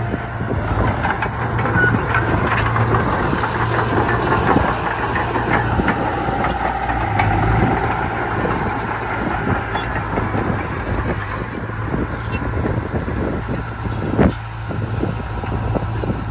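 Komatsu D31P bulldozer's diesel engine running steadily, with frequent clanks and rattles, and one sharp knock about 14 seconds in.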